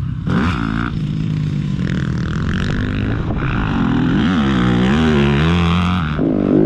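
Motocross dirt bike engine running on the throttle, its pitch rising and falling over and over as it revs up and backs off.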